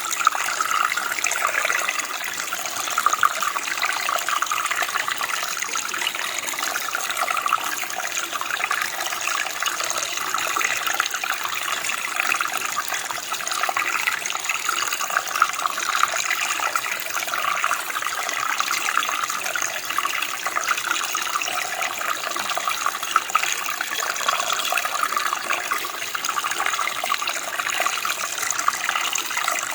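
Running water, a steady continuous rush and splash, like a small stream or creek flowing over stones.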